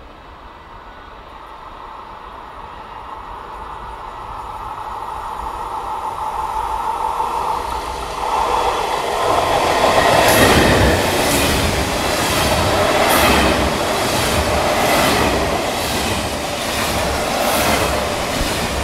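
An electric train approaching and passing through the station, growing steadily louder for about ten seconds, then a run of regular clacks as its wheels go over the rail joints.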